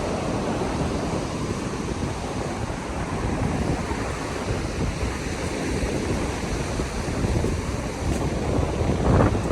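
Wind buffeting the microphone over ocean surf washing onto the beach, a steady rushing noise with a stronger gust near the end.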